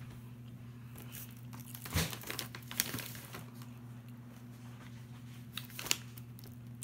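Snack packaging crinkling and rustling as it is handled, in a few short bursts, over a steady low hum.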